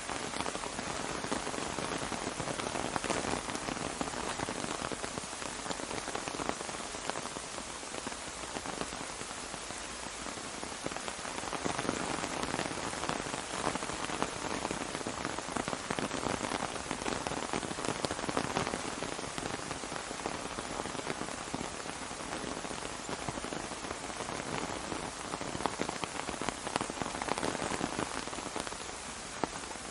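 Steady rain falling on an umbrella, a dense, even spread of drop hits.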